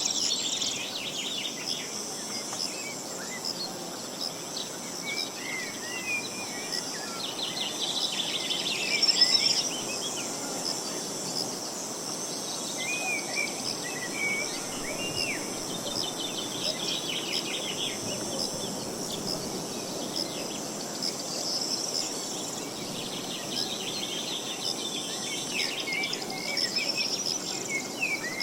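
Small birds singing in short, repeated chirping phrases over a steady high insect trilling and a soft rush of wind.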